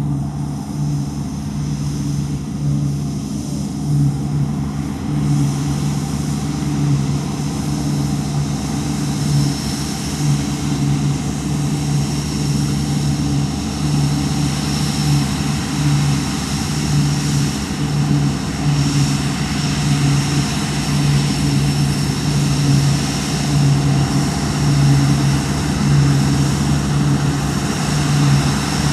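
Deutz-Fahr Topliner 4090 HTS combine harvester running steadily as it harvests barley: a continuous deep engine and machinery drone that pulses gently in level.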